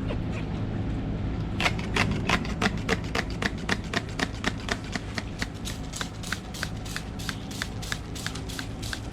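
Car turn-signal indicator ticking evenly about three times a second over a steady low engine hum inside the cabin.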